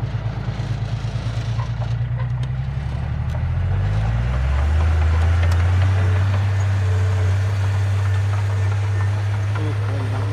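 Heavy diesel engine of earth-moving machinery, running with a pulsing beat at first, then revving up about four seconds in and holding a steadier, louder note.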